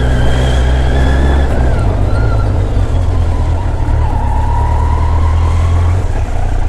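Superbike engine running on its stock exhaust while riding in traffic, over steady road and wind noise; the engine note changes about a second and a half in.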